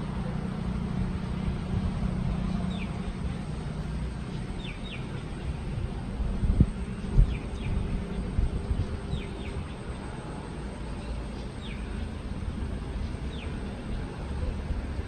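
A bird repeating short, falling chirps, often in quick pairs, every second or two over a steady low rumble. Two sharp thumps come about six and seven seconds in.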